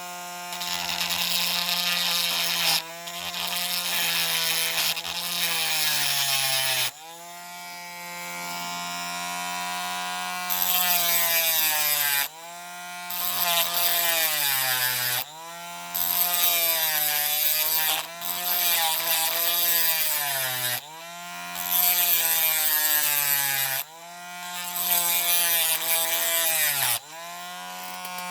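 Small rotary tool with a grinding wheel running at a steady whine while grinding die-cast toy metal. The rasp of the wheel on the metal comes in repeated passes of two to three seconds, and the motor's pitch sags and recovers each time.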